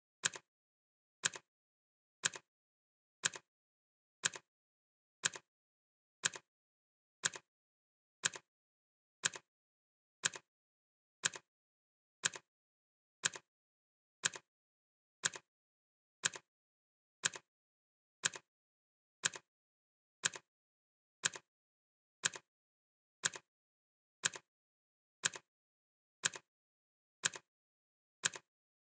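Clock ticking steadily, one sharp tick a second, each tick a crisp click followed closely by a fainter echo-like click.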